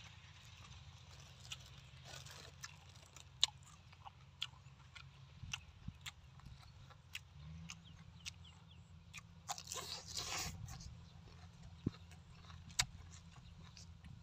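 Open-mouthed chewing of braised pork offal: irregular wet smacking clicks, with a short rustling burst about ten seconds in.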